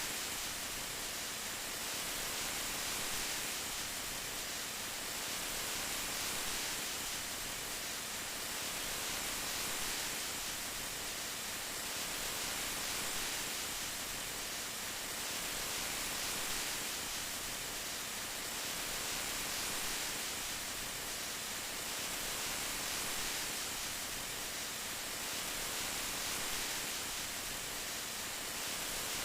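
Steady rain, a dense even hiss of falling drops that swells gently every few seconds.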